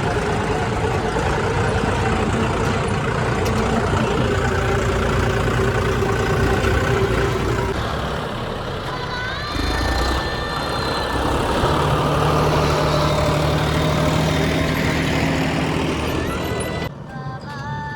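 Heavy farm-machinery diesel engine running steadily and loudly; the sound cuts off abruptly near the end.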